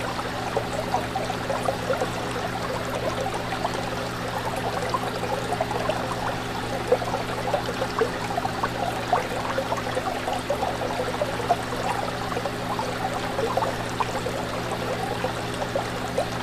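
Fish tank water bubbling and trickling in a continuous stream of small pops and splashes, with a steady low hum underneath.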